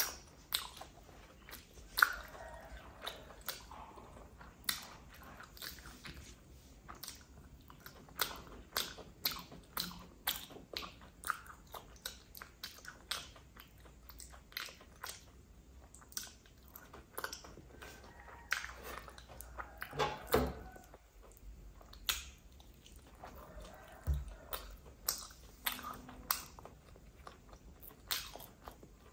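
Close-miked chewing of Khmer sweets, with sharp wet mouth clicks and smacks coming about once or twice a second.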